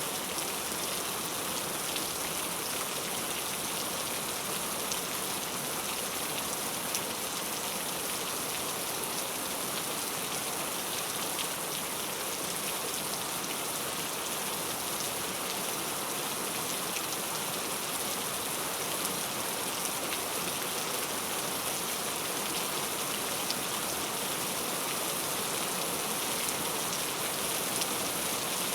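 Heavy rain falling steadily, a dense hiss with countless individual drop impacts.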